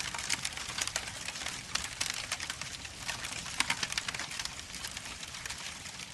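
Crackling static: a steady hiss thick with irregular sharp pops and crackles.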